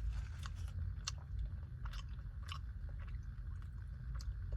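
Close-up mouth sounds of someone eating a spoonful of Dairy Queen Blizzard, soft-serve with cookie dough: chewing with a scattering of short, sharp wet clicks and smacks. A steady low hum runs underneath.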